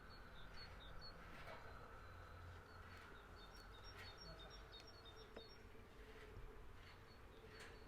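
Faint outdoor ambience: a steady insect buzz, with short repeated bird chirps at intervals.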